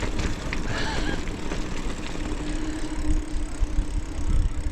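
Mountain bike rattling and jolting over a rough rocky path: a continuous rumble of tyres and frame with scattered sharp knocks. A faint steady hum runs through the middle.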